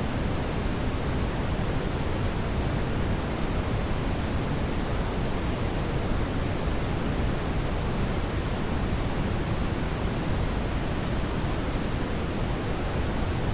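Steady brown noise: an even, unchanging hiss weighted toward the low end, with no events or changes.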